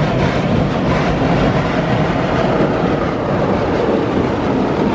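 Automatic car wash at work on a car, heard from inside the cabin: a loud, steady rush and rattle of water spray and washing machinery against the bodywork.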